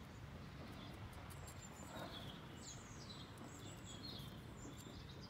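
Faint songbird chirping, a string of short falling notes every second or so, over a low steady outdoor background hum, with faint ticks from handling.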